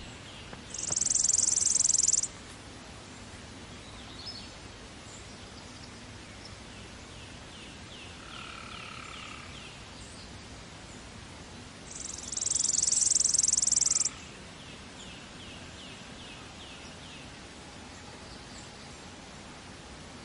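Chipping sparrow singing: two fast trills held on one high pitch, each lasting about a second and a half, about eleven seconds apart. Fainter, lower trills and calls sound between them over a steady background hiss.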